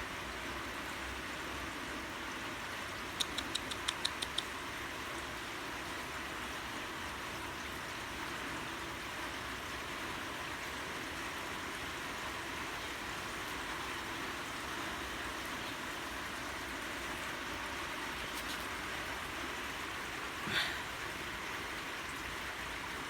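Steady rain falling, an even hiss. About three seconds in, a quick run of about eight sharp clicks.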